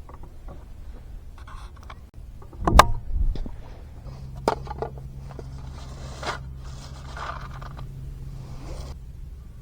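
A sharp knock a little under three seconds in, then scattered clicks and short scraping sounds of small objects being handled, over a steady low hum.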